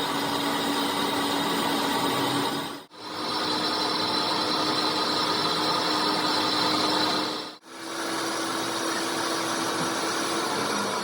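A power tool running steadily with a constant whine. The sound drops out sharply twice, about 3 seconds and 7.5 seconds in, and resumes each time.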